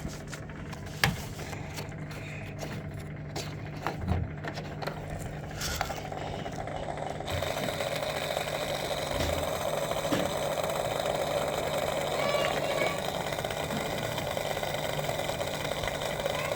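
Samsung EcoBubble front-loading washing machine starting a spin cycle: a steady low hum with a few sharp clicks as the door locks and the machine starts up. About seven seconds in, the drain pump starts and water rushes steadily through it.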